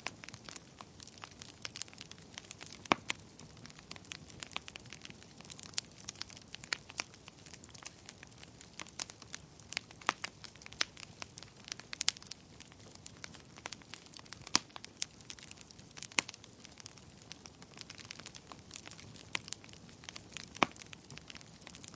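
Wood fire burning in a fireplace: a soft steady hiss with constant irregular crackling and occasional sharper, louder pops from the burning logs.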